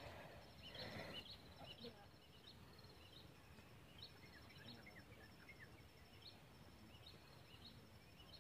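Quiet mountain ambience: a bird repeats short, high, rising chirps about once a second over a thin, fast-pulsing high tone.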